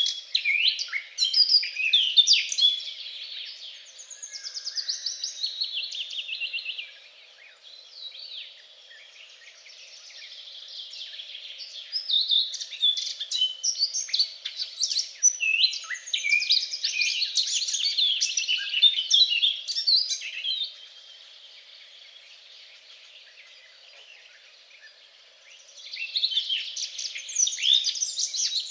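Songbirds singing, several overlapping chirps and rapid trills in bouts, with two quieter lulls in the middle and near the end; a faint steady low hum underneath.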